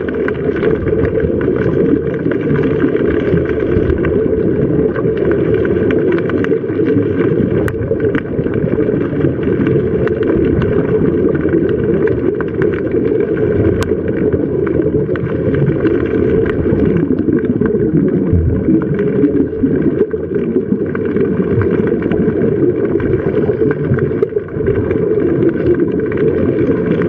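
Steady low motor rumble, with a constant faint whine of several tones above it and no pauses.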